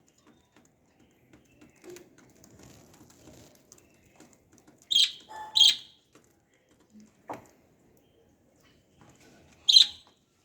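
Pet lovebirds giving three short, shrill calls: two close together about five seconds in, and one near the end. Faint rustling comes before them.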